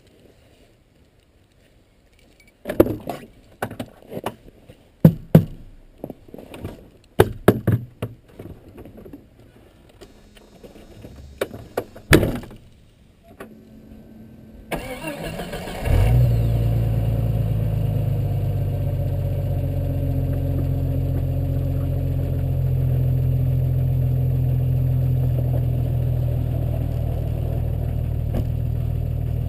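A series of sharp knocks and clicks, then the Jeep Cherokee XJ's engine starts a little past halfway and settles into a steady idle.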